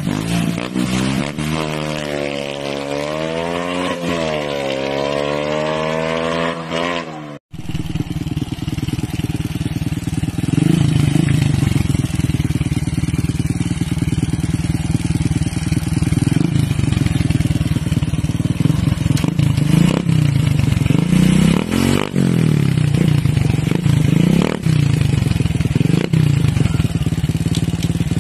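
Honda XRM single-cylinder four-stroke motorcycle engine, freshly modified, run while standing still: first revved steadily up and down in pitch, then after a cut idling with a rapid exhaust beat and given several short throttle blips.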